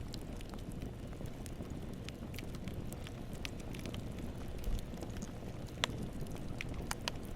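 Campfire burning: irregular crackles and pops over a steady low rumble of the flames, with one sharper pop about six seconds in.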